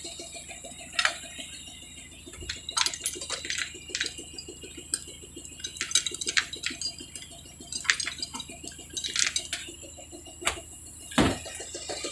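Irregular metallic clinks and knocks of tools and metal parts being handled during an engine swap, over a faint fast steady rattle; two heavier knocks come near the end.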